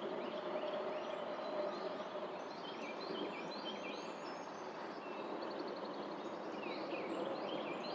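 Several birds chirping and calling, short high notes all through, with a quick trill a little past halfway, over a steady outdoor background hiss.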